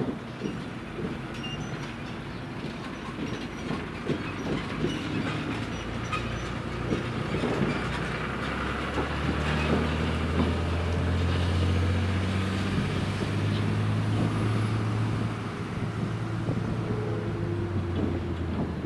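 A train passing on the track, its diesel engines making a low steady drone that builds about six seconds in, is loudest in the middle and eases off near the end, with repeated clicks of wheels over the rails.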